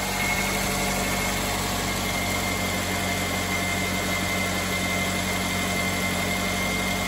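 Car engine idling steadily just after starting, with a thin, steady high whine running over it.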